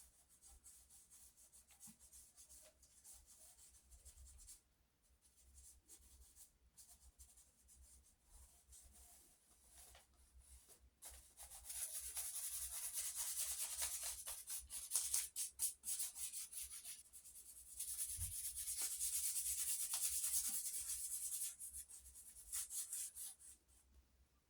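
Pencil scratching on paper in sketching: light, scattered strokes at first, then from about halfway long spells of rapid back-and-forth shading strokes, with a short pause between them.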